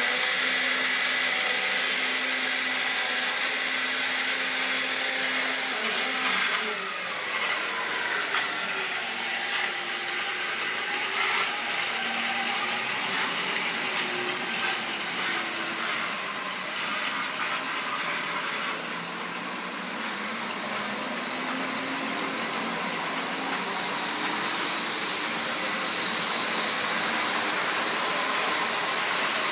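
Model railway locomotive running: the electric motor whines steadily, its pitch falling a few seconds in and then wandering up and down with speed, over a constant hiss of wheels on track with scattered light clicks.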